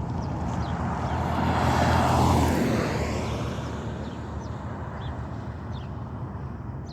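A motor vehicle drives past, growing louder to a peak about two seconds in and then fading away with a falling pitch. Birds chirp faintly.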